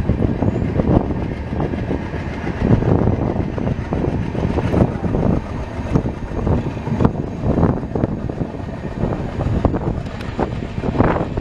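Moving train heard from the open side of a coach: a continuous rumble with irregular rattling and clattering of the wheels and carriage over the track.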